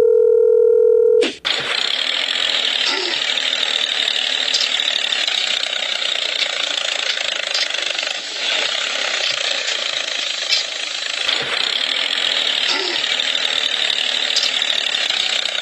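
A steady tone lasting about a second, then a continuous buzzing mechanical noise, as from a small motor, with a few faint clicks in it.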